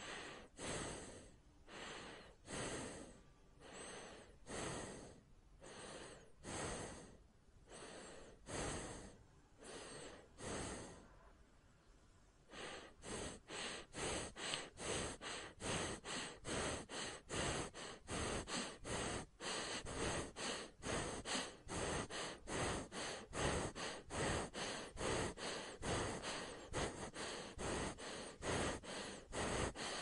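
A person breathing in and out, about one breath a second. After a brief pause near the middle the breathing turns fast and louder, about two breaths a second, as in panting.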